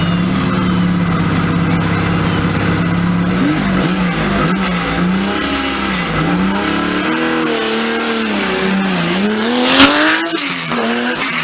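Porsche 911 rally car's flat-six engine held at steady revs, then revving up and down repeatedly as it drives. A single sharp loud crack comes near the end.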